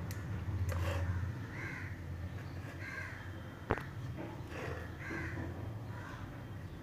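Bird calls, several short caws spaced about a second or more apart, over a low steady hum, with one sharp click near the middle.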